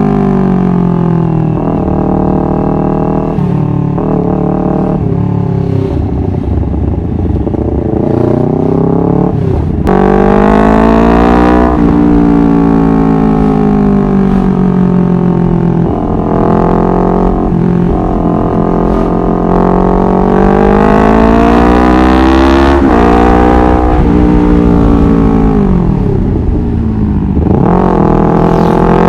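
Honda CBR250RR motorcycle engine and exhaust running under way, the revs repeatedly climbing and dropping back as the throttle is opened and eased off. It gets louder about ten seconds in.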